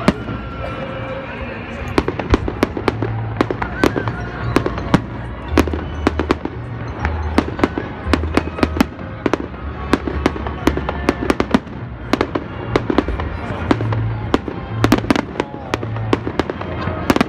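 Aerial fireworks shells bursting in a rapid, irregular string of sharp bangs, which come thicker about two seconds in.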